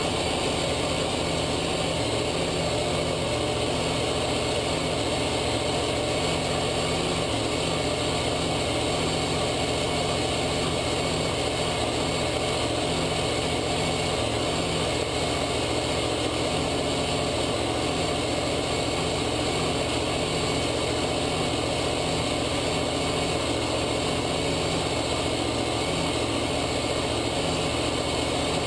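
Steady vehicle engine and road noise with no change in level and no impacts.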